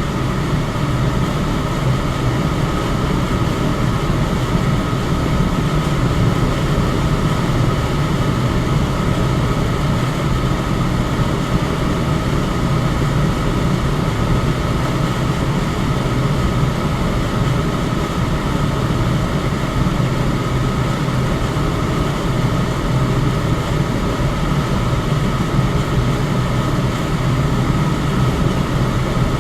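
Electric fan running steadily: an even rush of air with a low hum, and a faint constant tone above it.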